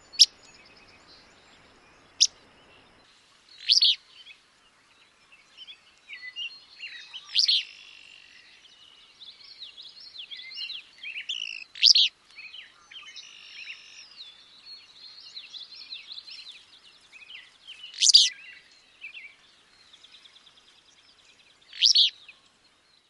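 Willow flycatcher giving its short, sharp, sneezy "fitz-bew" song about seven times at irregular intervals, with softer chatter and trills of other birds in the background through the middle.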